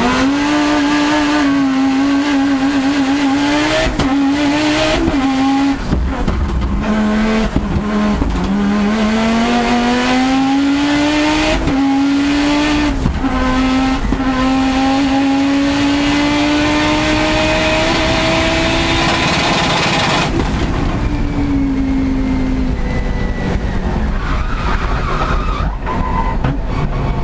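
Audi Quattro S1 rally car's turbocharged inline five-cylinder engine heard onboard, pulling hard up through the gears. The pitch climbs, breaks sharply at each gear change and drops, with a high whistle rising after each change. About twenty seconds in the driver lifts off and the engine falls to a lower, quieter note.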